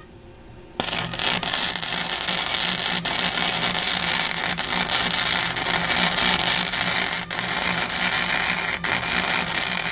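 Wire-feed welder arc crackling steadily from about a second in, with a low hum under it and a few brief breaks. It is a continuous bead with the newly changed wire, which is penetrating well.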